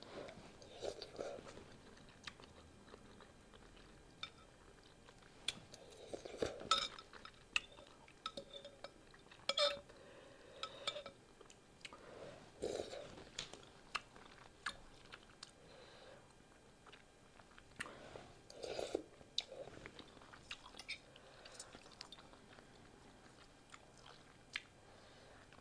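Close-up chewing of beef pho noodles, with irregular short clicks of a metal fork against a glass bowl.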